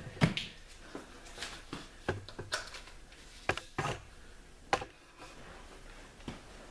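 Scattered light clicks and knocks of hands handling an opened microwave's parts and tools, about eight sharp taps spread through, the loudest just after the start and a little before five seconds in.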